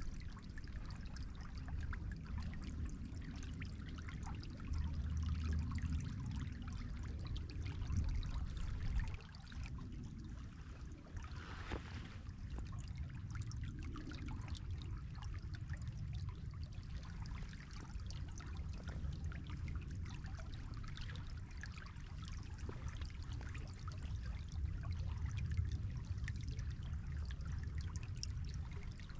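River water flowing and trickling, a steady low rush with a fine patter of small splashes over it.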